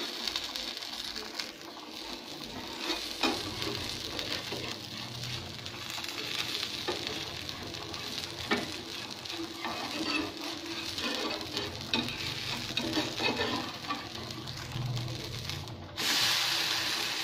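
Rava uttapam sizzling in oil on a hot tawa, with a spatula scraping and tapping under its edges. About sixteen seconds in it is flipped, and the sizzle jumps louder as the uncooked side meets the pan.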